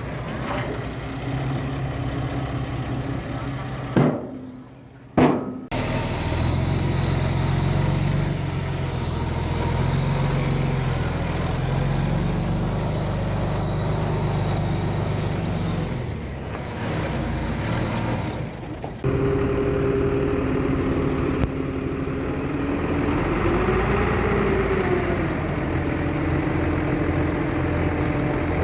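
Heavy diesel earthmoving equipment running steadily. The sound cuts abruptly with clicks about four to five seconds in and changes suddenly about 19 seconds in, and the engine note briefly rises and falls near the end.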